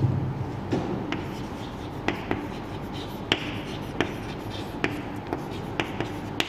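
Chalk writing on a blackboard: irregular sharp taps as the chalk strikes the board, between faint scratching strokes.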